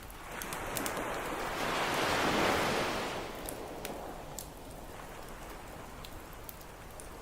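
An ocean wave swells in, loudest about two and a half seconds in, then washes back out. Through it a campfire crackles with scattered sharp pops.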